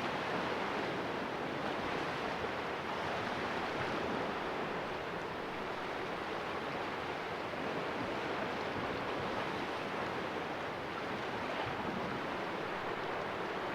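Sea waves splashing against the rocks of a small cove, an even, steady wash with little rise and fall.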